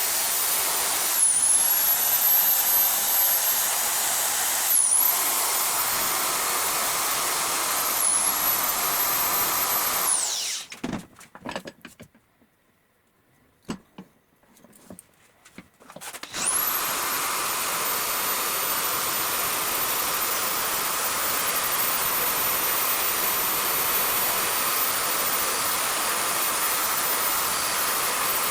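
Electric grinding machine running with a high whine that dips in pitch four times as work is pressed against it. It is switched off about ten seconds in, leaving a few light clicks, then started again about sixteen seconds in, whining up to speed and running steadily.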